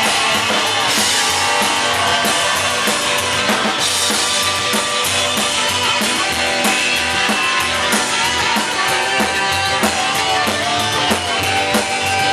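Live rock and roll band playing an instrumental passage without vocals: drum kit keeping a steady beat under electric guitar.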